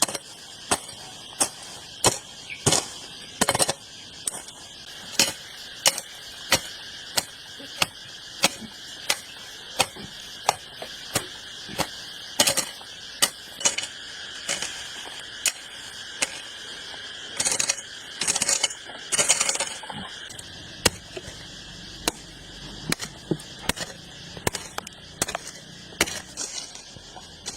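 A steady series of sharp knocks, about one every three-quarters of a second, over a steady high insect drone, with a short spell of scraping a little past the middle.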